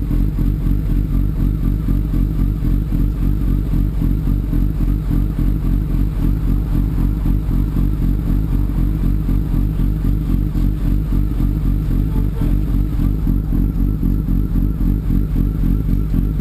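Sport motorcycle running at a steady cruising pace, its engine note holding even with no rise or fall in revs.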